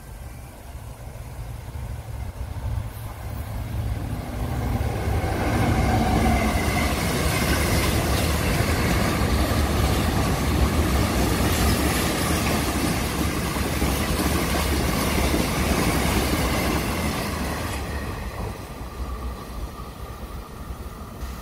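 Container freight train passing at speed: the wagons' wheels on the rails grow louder from about four seconds in, stay loud and steady, then fade from about eighteen seconds in.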